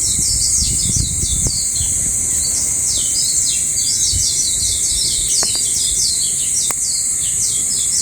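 Songbird chirping in quick runs of short falling notes, over a steady high-pitched hiss and low rumble, with a few sharp clicks.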